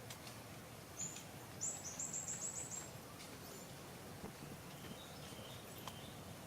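A small songbird singing: one high note, then a quick run of about eight high notes, with softer chirps later, over faint steady background noise.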